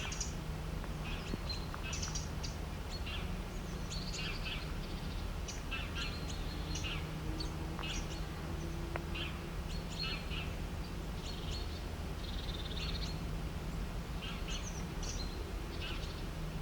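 Songbirds chirping and calling, many short overlapping chirps and trills throughout, over a steady low hum.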